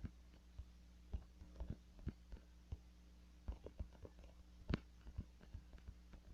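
Faint room tone: a low steady hum with scattered soft clicks and taps at irregular intervals. The loudest tap comes a little under five seconds in.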